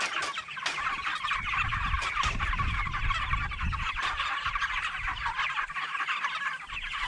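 A flock of five-week-old broiler chickens peeping and chirping constantly, many quick notes overlapping. A low rumble sits under the chirping from about a second and a half to four seconds in.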